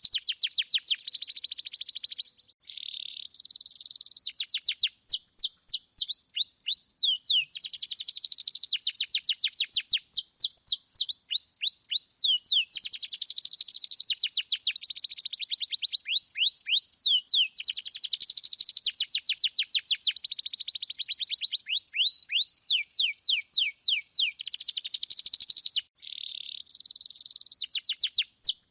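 Domestic canary singing continuously in long rolling trills: rapid runs of repeated high notes, many sweeping downward, switching from one run to another every second or two. There are two short breaks, about two and a half seconds in and near the end.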